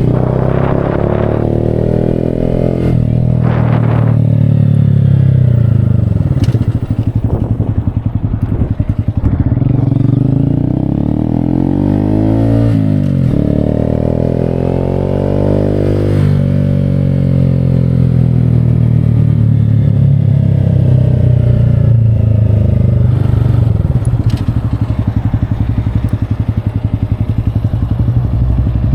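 Motorcycle engine running under way, its pitch climbing and falling repeatedly as it revs up and shifts through the gears.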